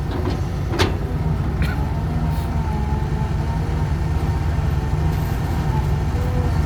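Dump truck's diesel engine running with a steady low drone, a faint wavering whine above it; a single sharp click about a second in.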